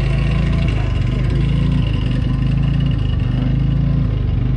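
A motor running steadily with an even, low hum that holds the same pitch throughout.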